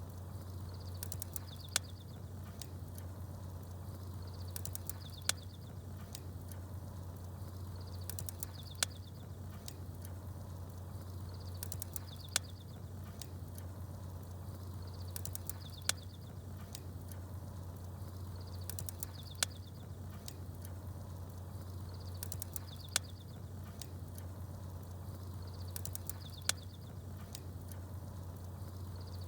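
Wood fire crackling with sharp pops, and small birds chirping in short high bursts over a steady low hum. The same pattern of pops and chirps repeats about every three and a half seconds, like a looped recording.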